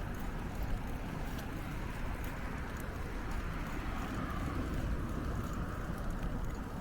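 Bicycle ride heard from the bike: a steady rolling rumble of tyres on the path, with wind rumbling on the microphone and a few faint clicks.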